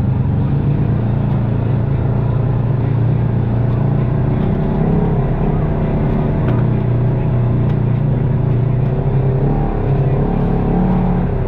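Side-by-side UTV engine running steadily as the machine drives along a trail, its pitch rising and falling slightly.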